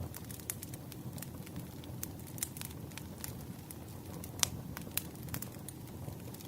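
Burning firewood crackling: irregular sharp pops and snaps over a low, steady rumble of flames, with one louder pop a little past the middle.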